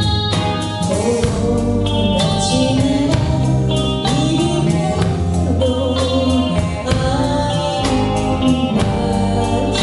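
A singer performing a slow pop ballad with band accompaniment: a sung melody with held, gliding notes over a steady beat.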